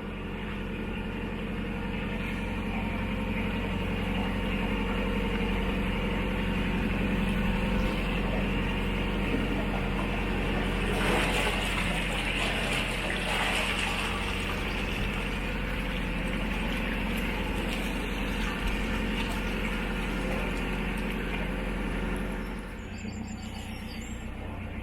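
Narrowboat's diesel engine running steadily while cruising, an even low note. A short spell of hiss rises over it about eleven seconds in, and the engine sound drops a little near the end.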